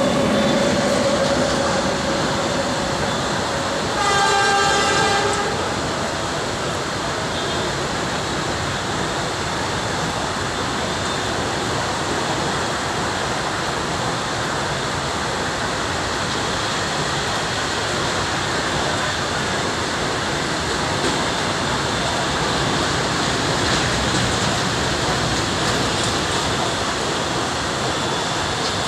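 Goods train running through a station: a steady rumble and rattle of passing wagons. A horn sounds briefly at the very start, then blasts for about a second and a half around four seconds in.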